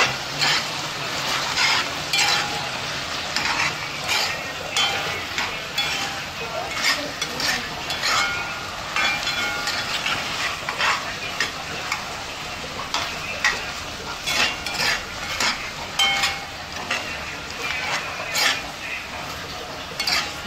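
Chicken pieces sizzling as they fry in a metal pot, with a metal spoon stirring them and scraping and clinking against the pot again and again.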